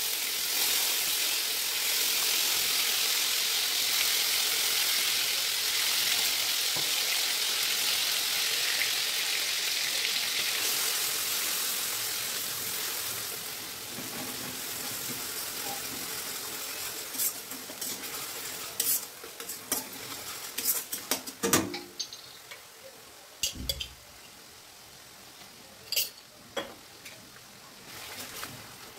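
Red sauce sizzling loudly as it hits hot oil in a metal wok, the sizzle slowly dying down over about twelve seconds. Then a spoon stirs and scrapes in the wok, with several sharp clinks of metal on metal.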